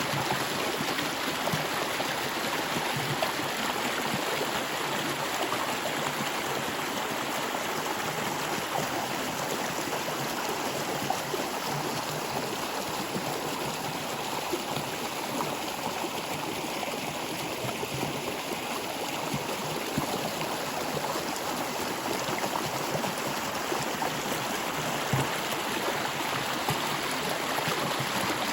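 Stream water flowing steadily over rocks, a continuous rushing and gurgling.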